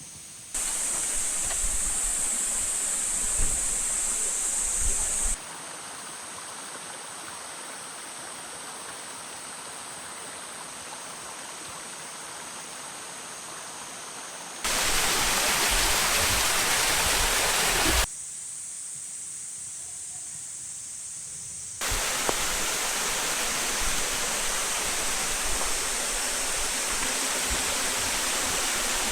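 A waterfall rushes steadily, its level jumping abruptly between louder and quieter stretches several times.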